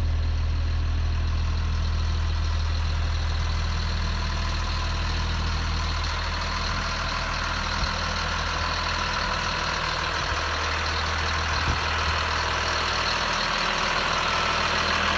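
Caterpillar C7 diesel engine of a 2006 Blue Bird Vision school bus idling steadily. Two faint ticks come in the second half.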